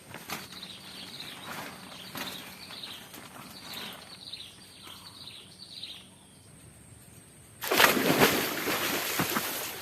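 A forest bird calling a series of short, high, falling notes, about two a second, fading out after about six seconds. Near the end a sudden loud rushing noise takes over for about two seconds.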